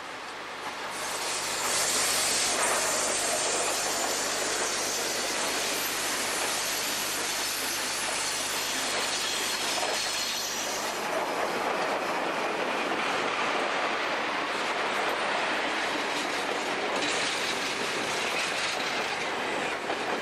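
A train running on the track, with loud wheel-on-rail noise that swells about a second in and holds steady, then cuts off suddenly at the end.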